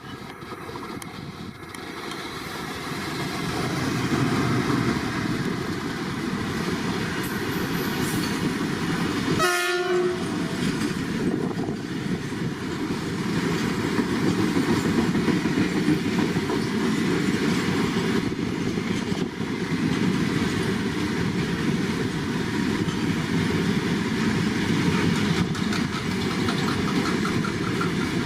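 Indian Railways freight train running past, its wagon wheels clattering over the rail joints. It grows louder over the first four seconds, then holds steady.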